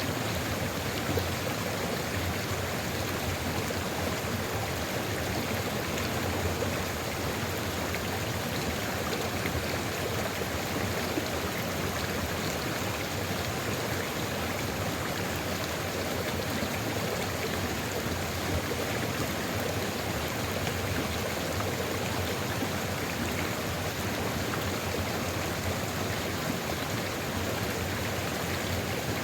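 Sulfur river water flowing steadily over its bed, an even rushing sound with no distinct splashes or breaks.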